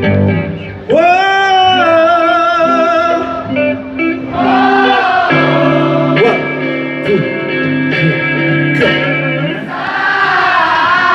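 Live band music, guitar-led, with sustained sung notes; the audience is singing along, as the singer has just asked them to.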